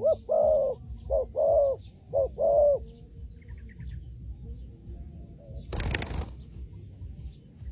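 Spotted dove cooing: three pairs of low coos, each a short note followed by a longer one, over the first three seconds. About six seconds in comes a brief flurry of wing flaps.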